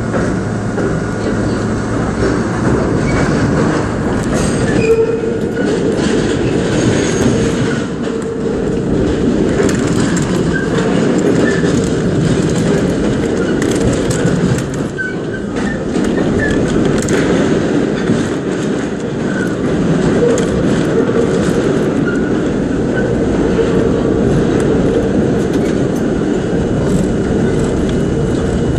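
A 1960s R32 New York subway train running at speed, heard inside the lead car. A steady rail rumble with clicking over rail joints, and a brief wheel squeal a few times.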